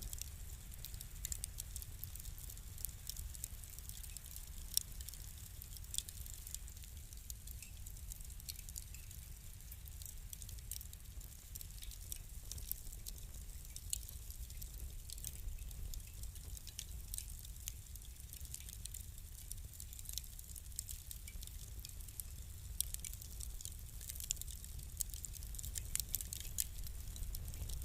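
Fire crackling: irregular small pops and snaps over a low steady rumble, with a run of louder pops near the end.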